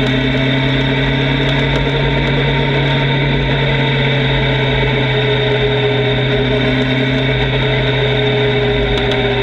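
Motorcycle engine running at a steady pace while riding, its pitch drifting slowly up and down with small changes in speed, heard through distorted onboard audio.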